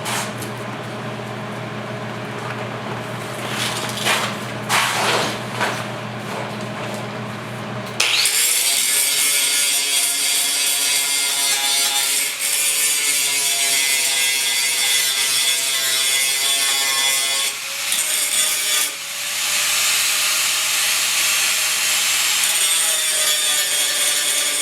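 Grinder with a grinding disc grinding down weld beads on a steel body patch. About a third of the way in, the sound turns suddenly louder and harsher, with a steady ring of tones over the hiss. It dips briefly past the middle.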